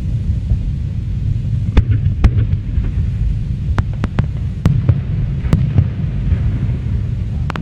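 Fireworks display: a continuous low rumble of shells going off, with several sharp cracks and pops scattered through.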